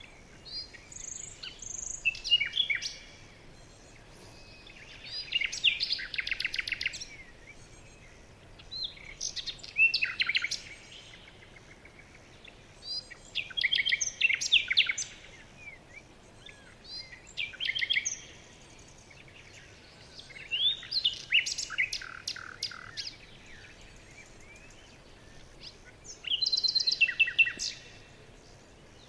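Songbirds singing in a forest: bursts of song with fast trills and chirps, each a second or two long, repeat every three to four seconds over faint background hiss.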